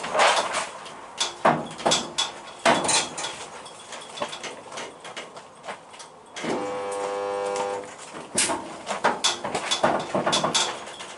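A run of sharp metal knocks and taps, some with a brief high ring. Partway through, a steady buzzing hum lasts about a second and a half, and another hum starts near the end.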